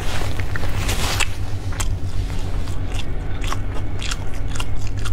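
Close-miked chewing and eating, with short mouth clicks scattered through, over a steady low hum; a rustling stretch in the first second goes with a tissue being wiped over the mouth.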